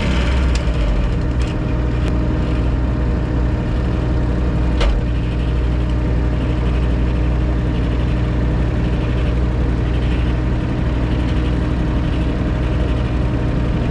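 An engine running steadily at a constant speed, a low even drone with no revving. There is one sharp knock about five seconds in.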